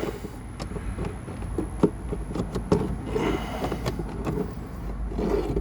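Irregular plastic clicks, taps and scraping as a hand works a small plastic retaining clip loose at the side of a Jeep Grand Cherokee's glove box, over a low steady hum.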